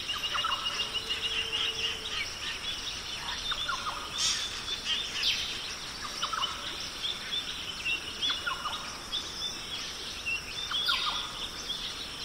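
Birds chirping in short, repeated calls over a steady hiss, as in a background nature ambience.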